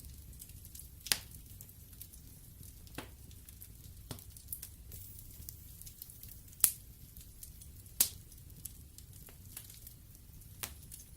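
Wood fire burning in a fireplace, crackling with sharp pops every second or two, the two loudest about six and a half and eight seconds in, over a low steady rumble.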